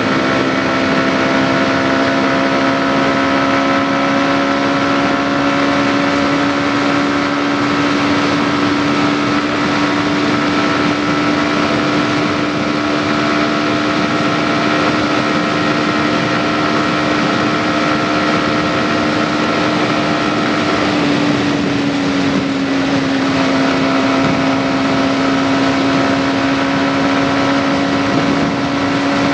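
Yamaha MT-15's single-cylinder engine running at cruising speed, its note climbing slowly and then dropping in pitch about two-thirds of the way through, over a steady rush of wind noise.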